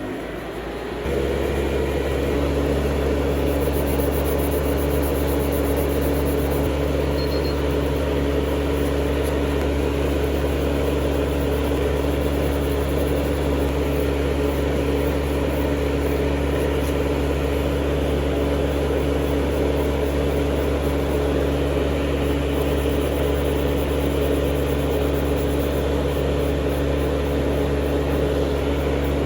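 Electric nail drill (e-file) motor spinning up, reaching speed about a second in, then running at a steady speed.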